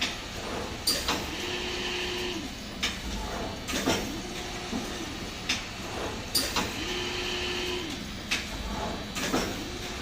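Servo-motor screen printing machine running through its print cycles. A motor hum ramps up, holds about a second and ramps down, twice, each time with a hiss, and the mechanism clacks and knocks sharply between the strokes.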